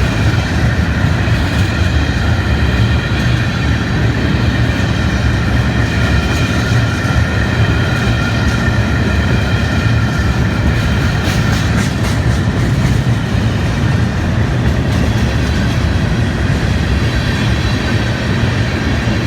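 Freight train cars rolling past at close range with a steady heavy rumble and clatter of wheels on rail. A thin high squeal from the wheels carries through the first half and fades out about halfway.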